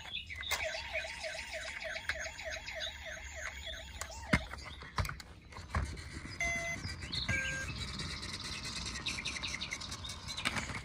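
Electronic toy sound effects: a warbling siren-like tone that rises and falls about three times a second, with a few sharp clicks, followed by short beeps and chirping electronic tones.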